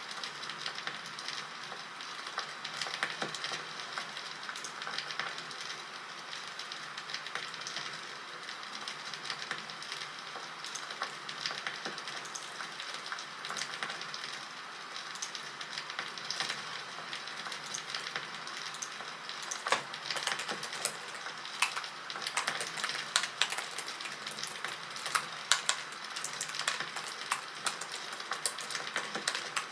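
Bonfire crackling: a steady hiss with irregular sharp pops and snaps, which grow busier and louder about two-thirds of the way in.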